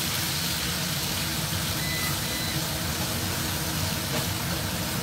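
Minced garlic sizzling in hot oil in a stainless steel wok, stirred with a silicone spatula, over a steady low rumble. A faint short beep about two seconds in.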